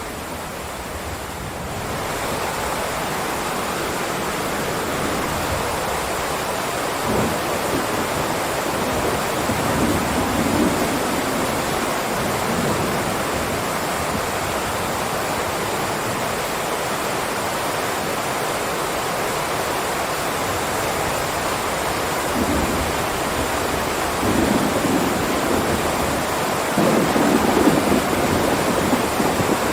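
Heavy rain downpour: a steady, dense hiss that grows louder about two seconds in, with several low rumbles swelling and fading.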